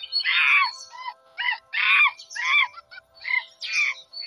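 A run of about eight short, harsh squawking animal calls, roughly two a second, each dropping in pitch, over steady background music.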